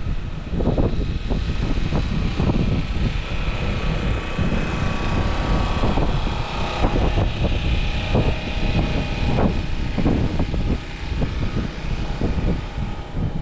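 Wind buffeting the camera's microphone as it rides on a moving electric scooter: a heavy, gusting rumble, with a faint steady whine underneath.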